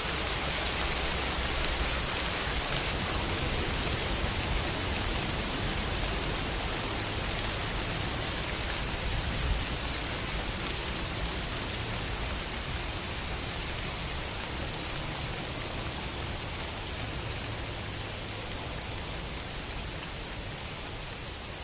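Steady, dense rainfall with a low rumble underneath, easing off slightly toward the end.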